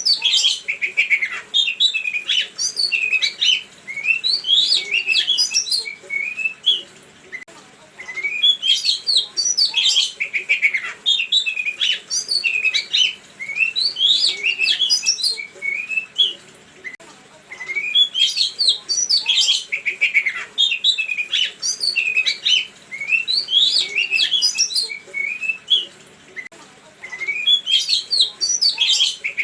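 Songbird singing a rapid, varied string of chirps and whistles in long phrases, each broken off by a brief pause before the next begins.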